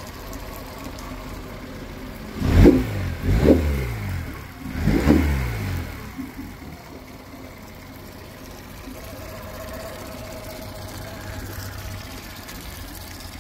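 2020 Yamaha 9.9 hp four-stroke outboard idling steadily, revved sharply three times between about two and a half and six seconds in, dropping back to idle after each blip. It returns cleanly to a smooth idle, running as it should now that the carburettor has been cleaned and the bad, water-contaminated fuel flushed out.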